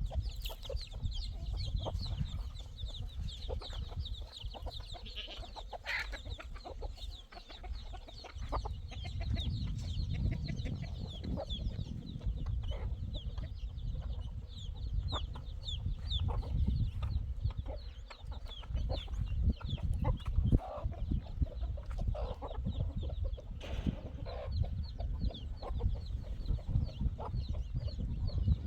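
Many birds calling in a dense stream of short, high chirps over a low rumble.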